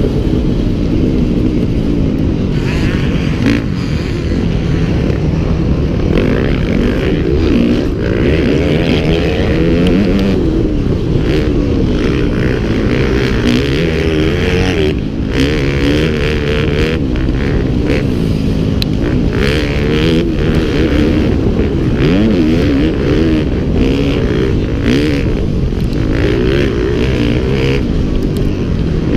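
Motocross motorcycle engines racing, revving up and down over and over as they accelerate and back off.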